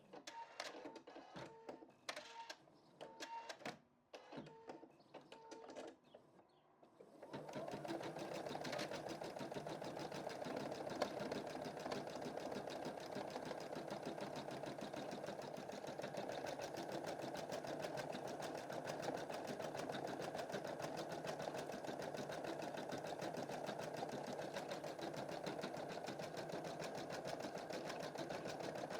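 Home embroidery machine: a few seconds of quiet clicks and short brief tones, then about seven seconds in the needle starts stitching again, running steadily at a fast even rhythm.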